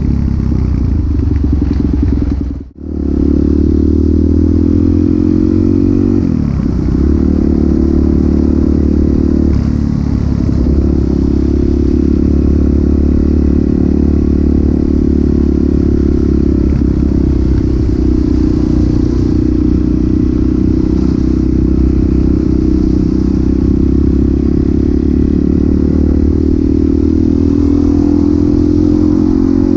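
Suzuki DRZ400SM single-cylinder four-stroke engine running through a Yoshimura exhaust while riding, its revs rising and falling several times. About three seconds in, the sound cuts out for a moment and comes back.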